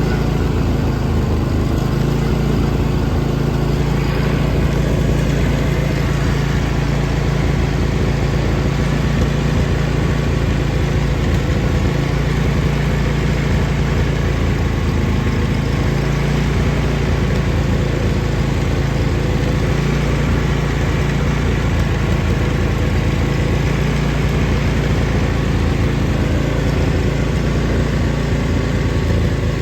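John Deere LA145 lawn tractor engine running steadily at a constant speed, warming up after a cold start.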